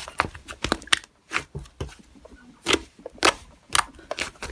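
Slime being squished and poked by hand, giving irregular sharp clicks and short crackling pops.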